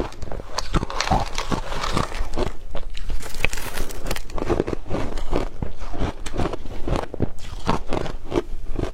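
Close-up crunching of hard crushed ice being bitten and chewed: a fast, irregular run of sharp cracks and crackles.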